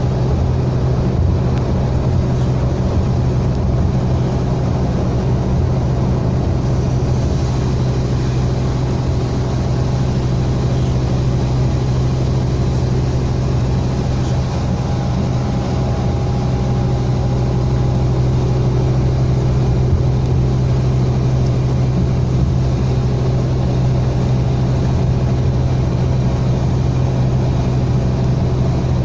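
Scania K320 bus's 9.3-litre DC9 diesel engine running at a steady, even pitch.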